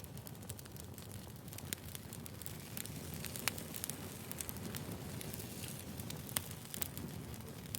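Burning firewood crackling: a steady low rush of flame with frequent, irregular sharp snaps and pops.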